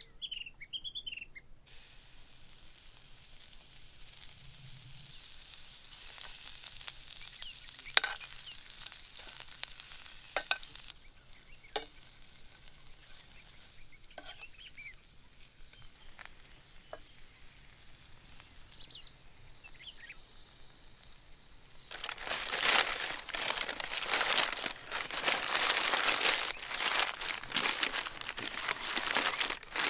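Food frying in an open-fire frying pan: a low sizzle with a few sharp clinks of a spoon against the pan, turning into a loud, dense crackling sizzle for the last several seconds.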